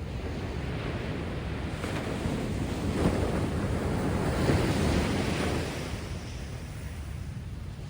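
Heavy storm surf after a typhoon: waves breaking and washing in, swelling to a peak about midway, then easing off. Wind buffets the microphone throughout.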